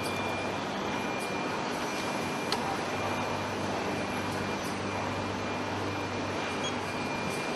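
Steady machinery noise of an engine production line, with a low hum, a thin high whine and an occasional sharp click.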